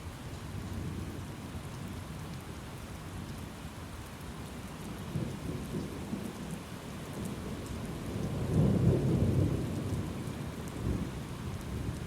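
Thunderstorm: steady rain with a low roll of thunder that builds from about halfway through, peaks about three-quarters of the way in, and fades away, with a smaller rumble near the end.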